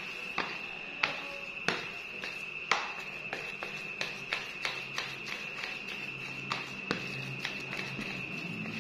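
Irregular sharp taps and knocks, a few each second, over a steady high-pitched insect drone, typical of a cricket.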